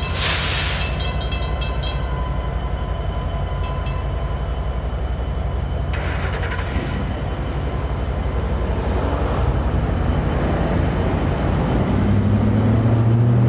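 EMD SD59MX diesel locomotives rumbling as they switch cars over the grade crossing. The crossing signal bell rings rapidly and stops about two seconds in, then gives a couple of stray strikes, typical of a slight tail-ring malfunction. Near the end a low engine drone rises in pitch.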